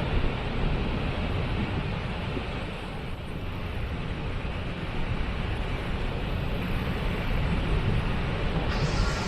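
Waterfall: a steady rush of falling water, heaviest in the low end. A brighter, higher hiss joins in shortly before the end.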